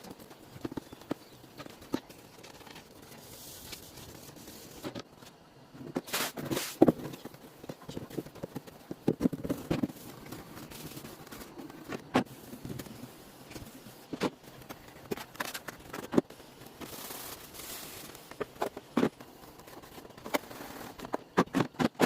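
Refrigerator being cleaned by hand: scattered clicks and knocks of shelves, drawers and containers being handled, with two brief stretches of hissing.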